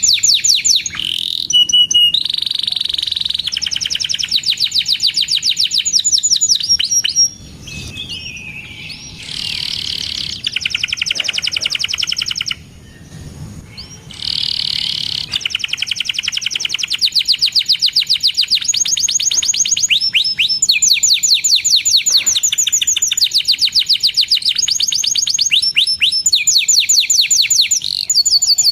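Domestic canary singing long trills of rapidly repeated high chirps, with brief breaks about seven and twelve seconds in.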